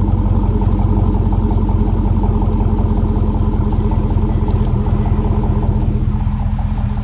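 Exhaust of a 2007 GMC Yukon Denali's 6.2-litre V8 through an Aero Turbine AT3030XL exhaust, idling steadily with an even, deep pulse.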